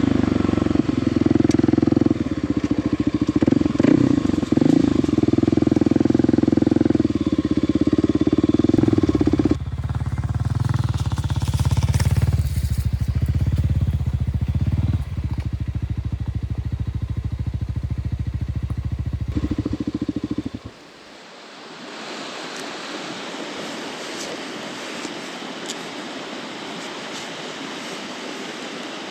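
Kawasaki KLX 300's single-cylinder four-stroke engine running, dropping in level about ten seconds in and then cutting off abruptly about twenty seconds in. A steady hiss remains afterwards.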